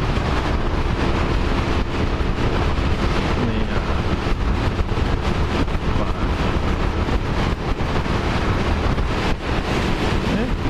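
Strong gusty wind buffeting the microphone of a rider cruising on a Suzuki DR motorcycle, with the engine running steadily underneath.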